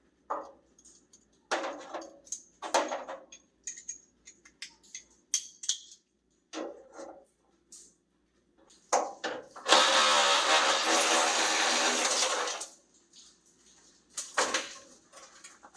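Scattered metallic clicks and knocks of hand work on the truck's front end, then a power tool runs steadily for about three seconds, the loudest sound, before the light knocking resumes.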